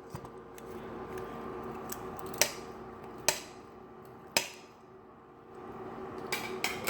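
Cooking utensils clicking and knocking against a pan as noodles are put into the sauce: a few sharp, separate clicks with a cluster near the end, over a faint steady hum.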